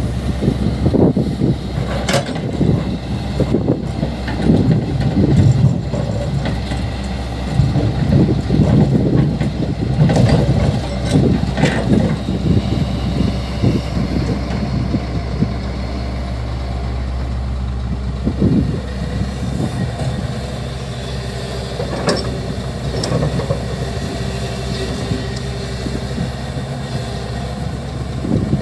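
Heavy diesel earthmoving machinery running steadily with a deep engine hum. It grows louder and rougher in irregular surges through the first half, and there are a few short sharp knocks.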